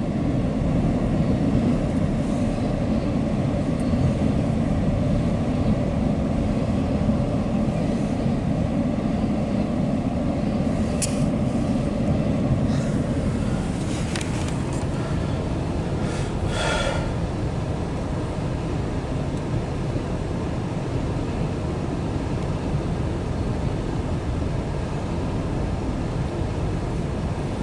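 Loaded autorack freight train rolling past at speed: a steady rumble of wheels on rail, with a few brief high squeals midway and the sound easing slightly later on.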